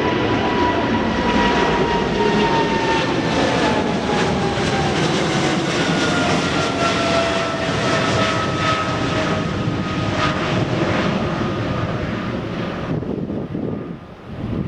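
Jet airliner taking off past the runway: loud engine noise with a whine that falls steadily in pitch as the aircraft goes by. The sound thins out suddenly near the end.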